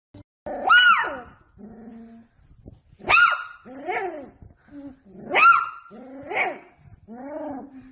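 A dog barking and yelping in a series of about six pitched calls, each rising and then falling in pitch, roughly a second apart.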